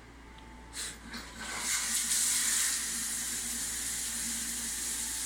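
Two short knocks, then water is turned on and runs steadily through the electric water heater's outlet as a hiss. The flow is weak, which the owner questions.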